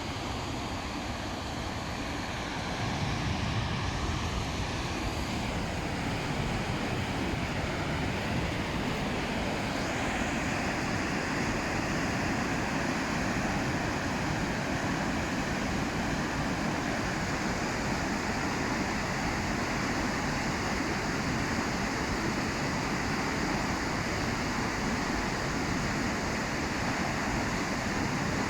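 River in flood rushing over a weir and through a standing wave: a steady, even rush of water.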